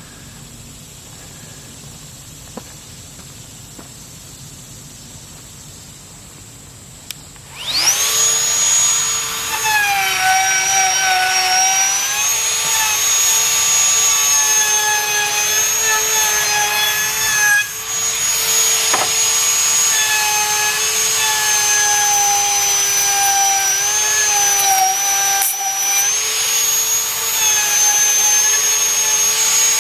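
Ryobi handheld router switched on about eight seconds in, spinning up quickly to a high, steady whine, its pitch sagging slightly now and then as the bit cuts along the edge of a white oak board.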